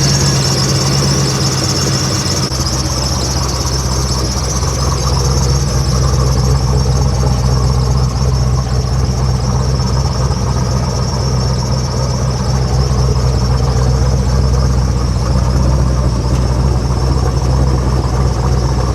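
A vehicle engine running steadily, a low drone with a high-pitched whine over it that fades over the first few seconds.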